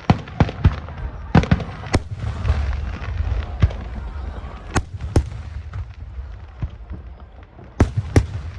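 Aerial fireworks shells bursting overhead in an irregular series of sharp bangs, about ten in all, over a low rumble. The bangs cluster in the first two seconds and again near the end.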